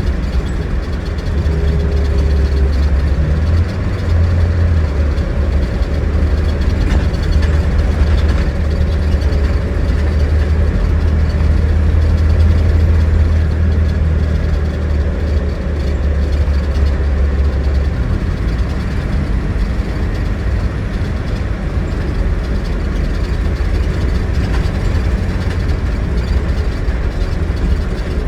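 Scania DC09 9.3-litre five-cylinder diesel of an Irizar Century coach running steadily on the road. Its deep low rumble is strongest for the first two-thirds, then drops to a softer note about 18 seconds in.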